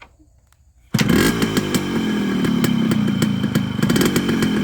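Yamaha RX100's two-stroke single-cylinder engine starting up about a second in, its revs falling off and then running steadily with a rapid popping from the exhaust.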